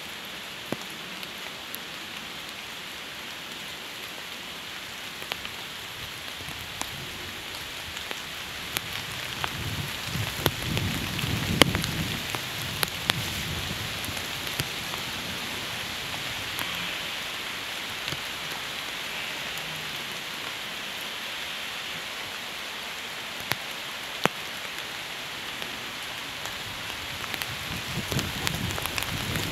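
Steady rain falling, with sharp drop ticks throughout and a brief low rumble swelling about ten seconds in.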